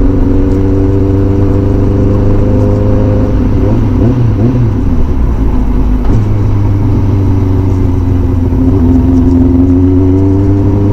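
Kawasaki ZZR600 sport bike's inline-four engine running steadily over a heavy low rumble. Its pitch dips about four seconds in and rises gently near the end.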